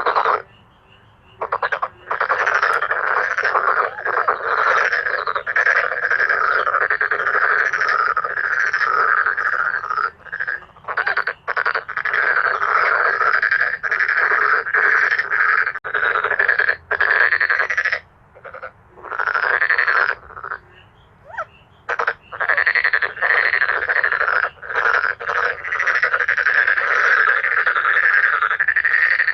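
Chorus of male dark-spotted frogs calling: long, rapidly pulsed croaking calls overlapping almost without a break, with a few short pauses.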